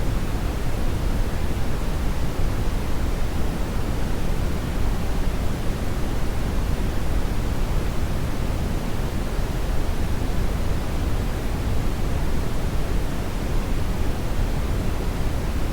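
Hair dryer running steadily: an even rush of air, deepest in the low end, with no change in level or pitch.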